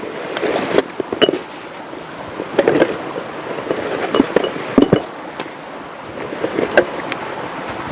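Steady rush of running water from a rainforest river, with a series of irregular knocks and clatters on top.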